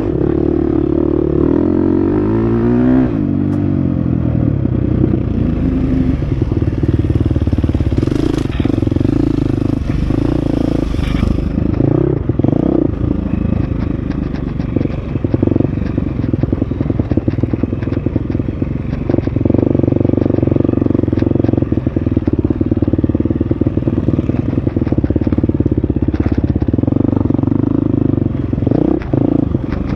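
Husqvarna FX 350 four-stroke single-cylinder dirt bike engine running hard on a trail ride, its pitch climbing about two to three seconds in as it revs up, then holding steady. Many short clicks and knocks from the bike working over rough ground run through the second half.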